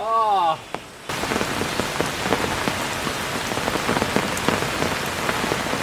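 Heavy rain pouring down, with many close drops ticking sharply on a surface; it starts suddenly about a second in. Just before it there is a short voice-like sound that rises and falls in pitch.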